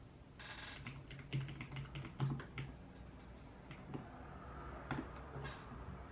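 Typing on a computer keyboard: irregular runs of key clicks, after a short rustle near the start.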